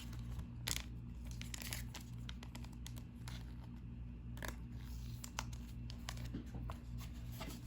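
Handling of trading cards and their wax-pack wrapper: soft crinkling, rustling and small clicks as the cards are sorted by hand, over a steady low electrical hum.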